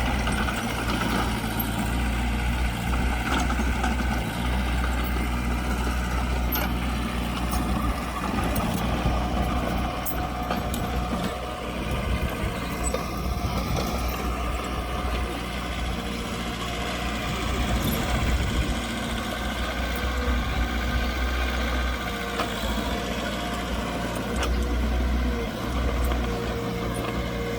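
Diesel engines of heavy earthmoving machinery running steadily, with a deep rumble and occasional clicks and clanks.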